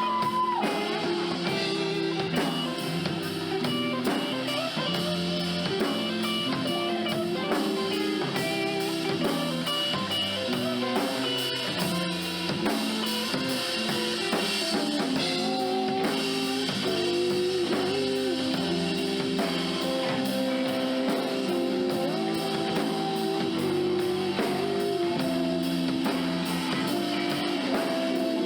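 Live band playing a song without singing: guitar over a drum kit keeping a steady beat.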